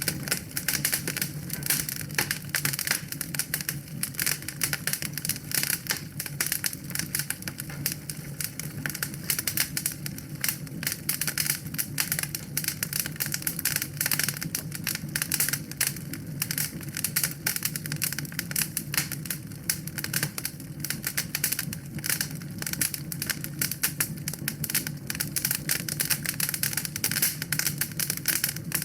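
Wood fire in a fireplace crackling densely, with rapid irregular pops and snaps over a steady low rumble of flames.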